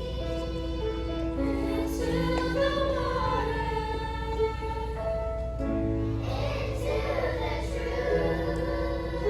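A children's choir singing a song over instrumental accompaniment with long held notes.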